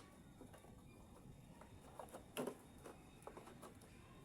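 Near silence broken by a few faint clicks and knocks, the loudest about two and a half seconds in, from rope being handled and pulled while tying a load down.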